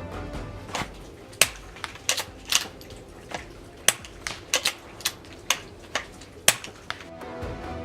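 A quick, irregular run of sharp clicks and snaps, about fifteen in seven seconds, with the loudest near the start, the middle and the end: a suppressed CZ 452 .22 rifle firing and its action being worked.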